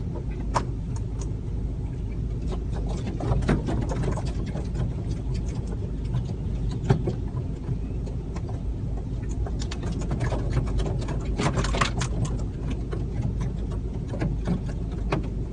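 Steady low rumble of a car, heard from inside the cabin, with many short sharp clicks and chirps from a large flock of black birds swarming on and around the car, thickest about three seconds in and again past the ten-second mark.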